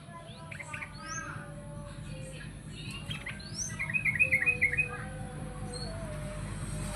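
Yellow-vented bulbul (trucukan) singing a varied string of chirps and sweeping whistles, with a loud fast run of repeated notes about four seconds in.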